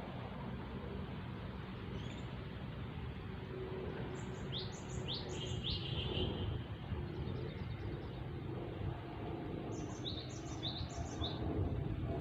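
A small bird calling: two series of three quick, high, falling chirps, about four seconds in and again about ten seconds in, over a steady background hiss.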